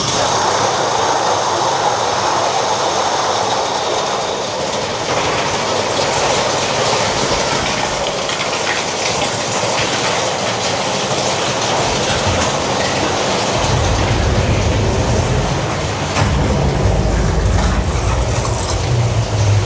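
Big Thunder Mountain Railroad mine-train roller coaster running along its track, its wheels clattering steadily; a deep rumble joins about thirteen seconds in.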